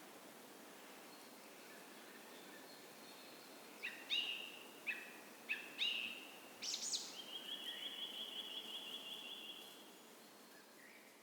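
Songbirds singing at dawn over the steady hush of a creek: about four seconds in, a series of clear whistled notes, then a high sweep and a fast, even trill that lasts a couple of seconds and fades.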